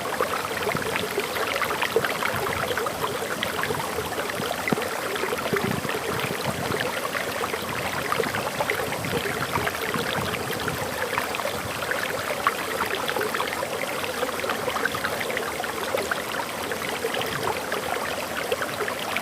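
Waterfall: water falling and splashing steadily, with a constant, even level throughout.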